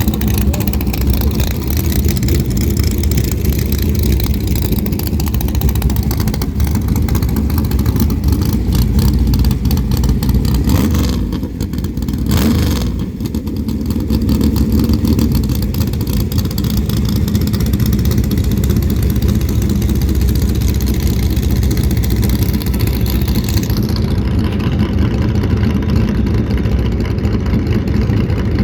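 Small-block Chevy V8 in a Chevy S10 running hard under load through a drag strip pass on nitrous. The level dips briefly about eleven seconds in, then the engine pulls steadily again.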